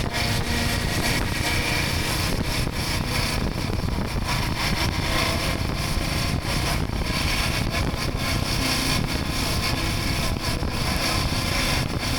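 Steady rush of wind buffeting the microphone on a moving motorcycle, over engine and road noise.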